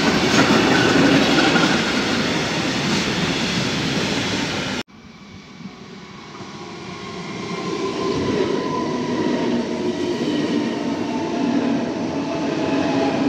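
A long container freight train rolls past at speed, its wagons rumbling and rattling over the rails. About five seconds in, the sound cuts off suddenly. Then an S-Bahn electric multiple unit pulls into the station, growing louder as it nears, with a whine from its electric drive that slowly falls in pitch.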